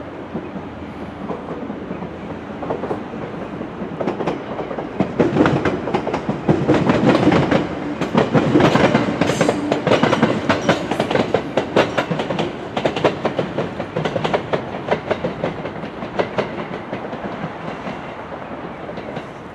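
A W7 series Shinkansen train running past as it comes in to arrive, its wheels clicking quickly and regularly over the track. The clicking builds about four seconds in, is loudest through the middle and tails off near the end, over a steady low hum.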